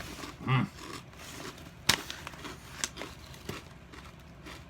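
Chewing crunchy kettle-cooked wavy potato chips: a few sharp crisp crunches, the loudest about two seconds in.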